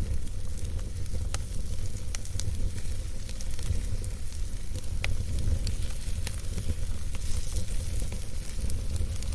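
Campfire burning, crackling with scattered sharp pops over a steady low rumble.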